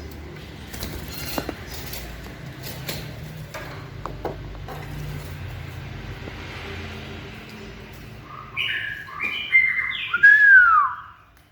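White-rumped shama giving a short burst of clear whistled notes, the last a loud downward-slurred whistle. Before it there are a few faint taps.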